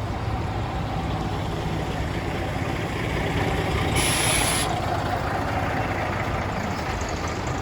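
Scania L94UB bus's DC9 diesel engine running steadily, with one short, loud hiss of compressed air from the pneumatic system about four seconds in.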